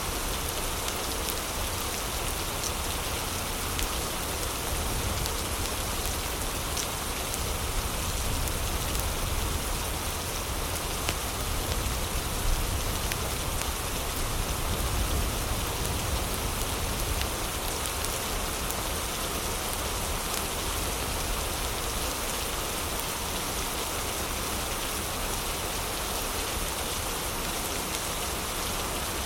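Heavy rain falling steadily, a dense even hiss with a few faint ticks.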